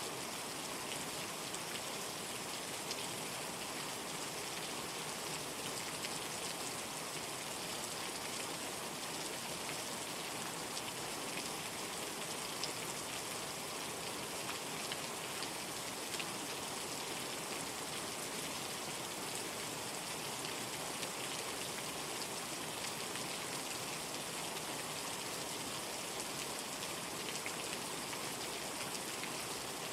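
Steady heavy rain, a dense even hiss with fine patter of drops striking a surface.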